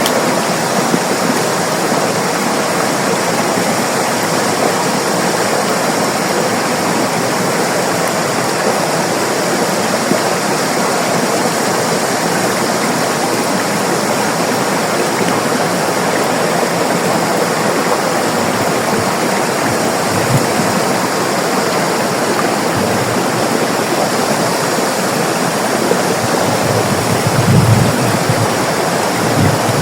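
River water rushing and gurgling steadily. A few brief low thumps come through the rush, the strongest near the end.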